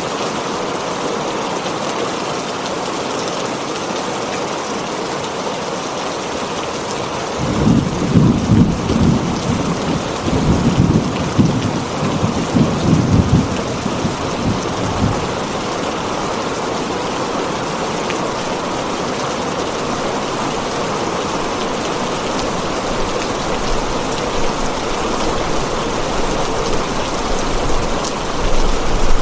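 Steady rain falling on a tin roof. A rumble of thunder comes in about seven seconds in and rolls on for several seconds, and another rumble begins near the end.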